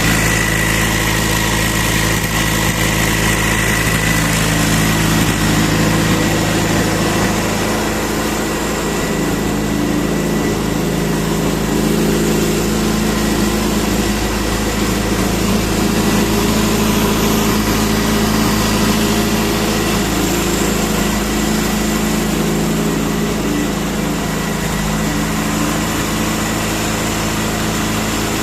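Subaru EJ20X turbocharged flat-four engine idling steadily on a test stand, warmed up to operating temperature.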